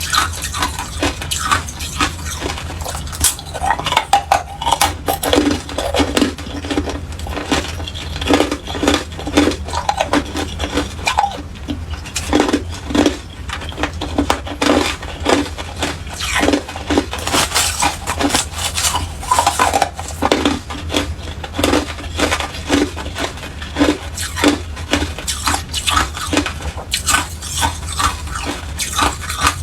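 A person biting and chewing hard clear ice: irregular sharp crunches and cracks, several a second, over a steady low hum.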